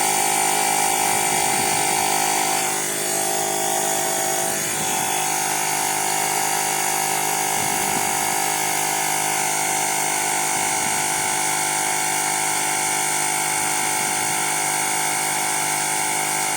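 Woowind AP2-P cordless electric tyre inflator running, its small motor-driven compressor pumping air into a bicycle tyre. The sound is a steady, loud buzz that wavers briefly about three seconds in.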